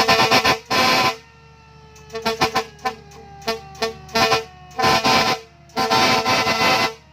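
Truck air horn sounded in a rhythmic series: quick short toots, then several longer blasts on the same pitch, with a faint steady tone gliding slowly down underneath.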